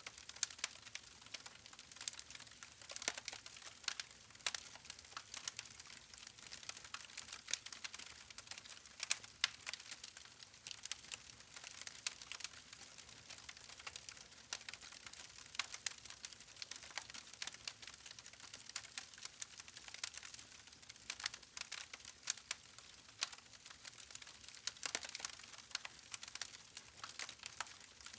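Wood campfire crackling: burning logs give off irregular sharp snaps and pops over a soft steady hiss.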